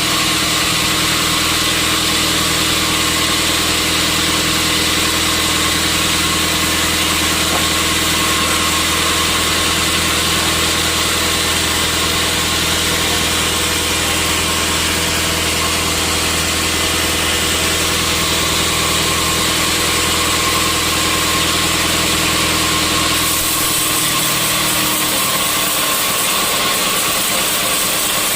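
Sawmill machinery running steadily with a loud, constant hum and hiss. About 23 seconds in, the low hum drops away while the higher noise carries on.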